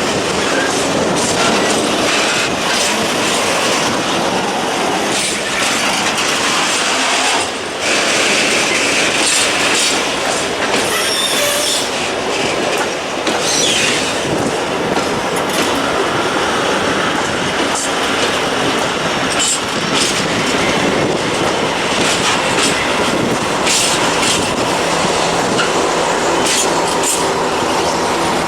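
A rake of empty open coal wagons rolling along the track as a locomotive pushes it. There is a steady rolling clatter, with short high screeches from the wheels now and then.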